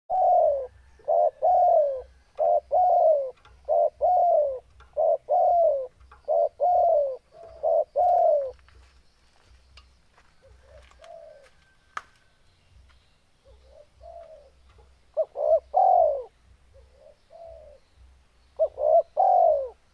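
Spotted dove cooing: a dense run of loud coo phrases, each note falling in pitch. After about eight seconds come softer, sparser coos, then loud phrases again in the last few seconds, with one sharp click midway. This is the persistent song of a male in breeding condition.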